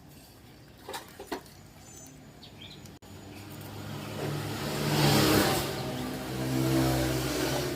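A motor vehicle engine that grows louder to a peak about five seconds in, then eases off a little, after a few sharp clicks about a second in.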